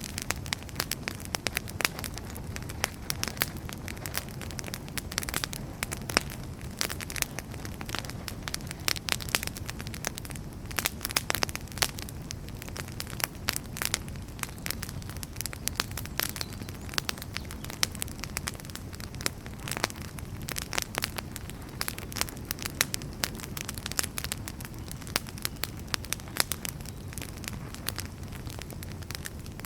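Wood fire burning in a fireplace: many irregular sharp crackles and snaps from the burning firewood over a steady low rumble of the flames.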